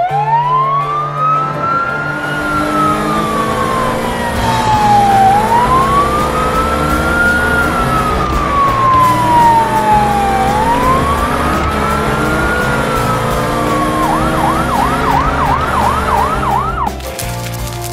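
Fire engine siren in a slow wail, rising and falling three times, then switching to a fast yelp near the end before cutting off.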